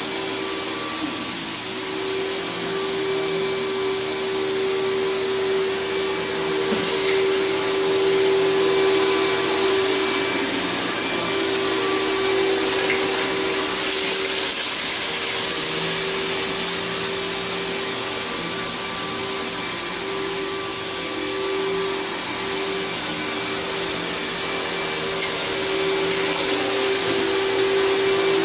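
A 10-amp Riccar bagged vacuum cleaner running continuously, with a steady motor whine over a rushing hiss and its loudness slowly rising and falling.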